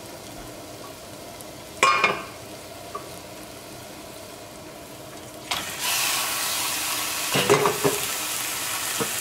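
Raw chicken pieces going into hot fried masala paste in a pot, setting off a loud, steady sizzle about five and a half seconds in. Before that the paste fries with a quiet sizzle, broken by a clatter about two seconds in; a few knocks follow the sizzle near the end.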